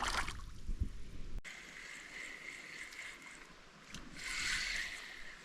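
Creek water running over rocks, a steady rushing hiss that swells briefly about four seconds in.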